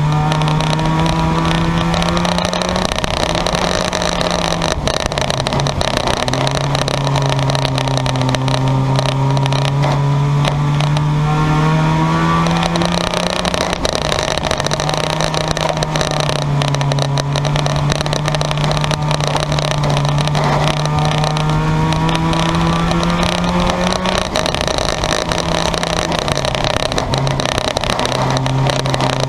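Race car engines on a speedway track, with one engine loudest: its pitch climbs steadily for several seconds and then drops sharply, over and over, as the car accelerates and then backs off.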